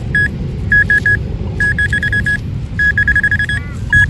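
Metal detecting pinpointer beeping at one high pitch. Its short beeps come faster and run together into an almost steady tone as it closes in on a target in the dug hole, over a steady low rumble.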